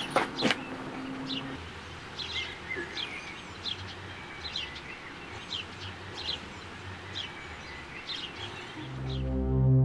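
A bird chirping outdoors, with short high chirps repeated every second or so over steady background noise. The glass entrance door's handle clicks a couple of times at the start, and soft music with low held notes fades in near the end.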